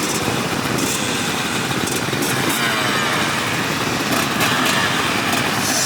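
Motocross bike engines running and revving under a steady rushing noise, with faint rises and falls in pitch a couple of seconds in.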